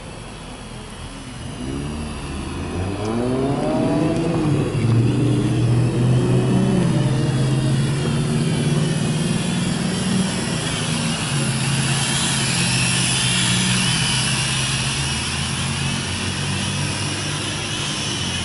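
A vehicle engine revs up over a couple of seconds and then runs steadily for more than ten seconds. A high, wavering whine rises over it about ten seconds in.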